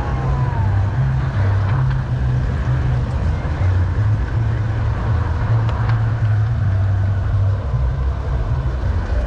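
Steady low rumble of a model garden-railway train running on its track, picked up by a camera riding on the train, with a few faint ticks.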